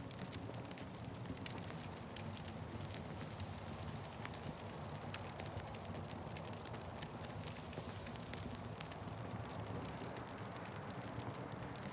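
Wood fire burning, with frequent irregular sharp crackles and pops over a steady low rumble of flame.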